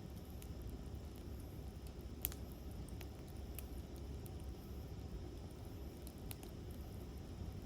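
Campfire crackling: a handful of sharp pops from the burning wood, the loudest about two seconds in, over a steady low rumble.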